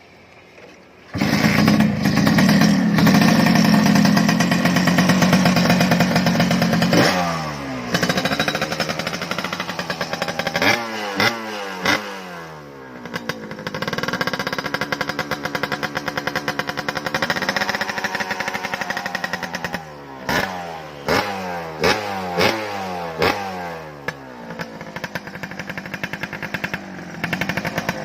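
Suzuki Satria two-stroke single-cylinder engine with an EL5 racing exhaust, starting abruptly about a second in and running loud. It is held at high revs, then given repeated throttle blips that rise and fall, settling between them.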